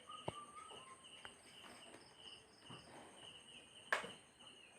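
Faint insect chirping, most likely a cricket: a steady train of short high chirps, about three a second. A single sharp tap about four seconds in.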